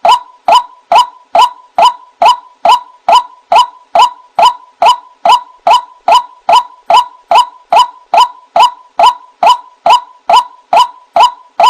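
White-breasted waterhen call, played as a bird-trapping lure: one short, sharp "kwak" note repeated evenly, a little over twice a second, without a break.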